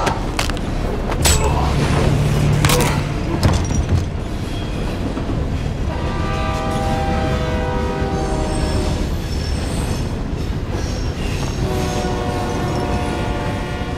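A moving train carriage rumbling steadily, with a few sharp knocks in the first four seconds. From about six seconds in, and again near the end, a long, steady many-pitched tone comes in over the rumble.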